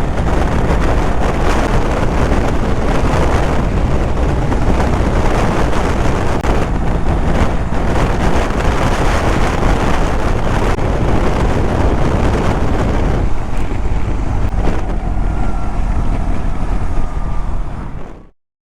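BMW GS boxer-twin motorcycle cruising at about 100 km/h in sixth gear in a strong crosswind: loud, steady wind rushing over the microphone over the road and engine noise. The sound cuts off abruptly near the end.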